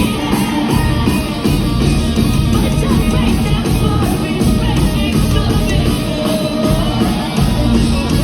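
A live rock band playing loud and steady, with electric guitars and drums and no clear vocals.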